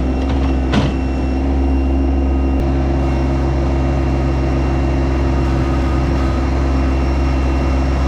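Yanmar SA324 compact tractor's three-cylinder diesel engine running steadily, with a short knock or rattle about a second in.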